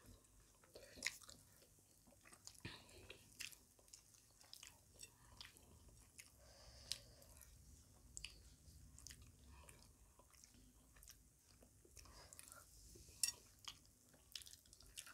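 Faint chewing of rice and curry eaten by hand, with scattered soft clicks from mouths and fingers working the rice on the plates.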